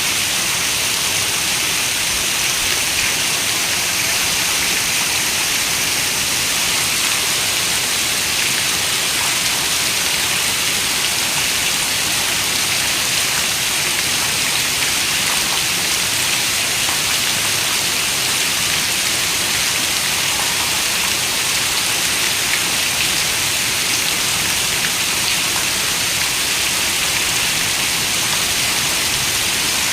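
Steady, even rain, a constant hiss of many small drops with no thunder or other sounds.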